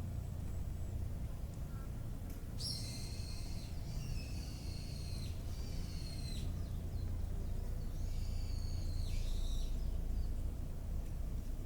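A bird singing two phrases of clear whistled notes, the first lasting about four seconds and the second about two, over a steady low rumble.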